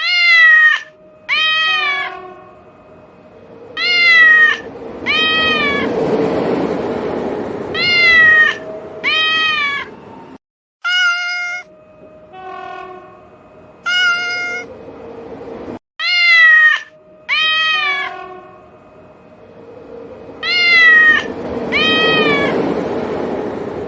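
A kitten meowing again and again, mostly in pairs of short meows that rise and fall in pitch. Under it, a train's rumble swells and fades away twice.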